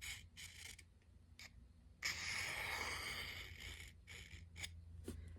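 Steel knife edge scraped across a whetstone in light deburring strokes: a few short scrapes, then one longer stroke about two seconds in.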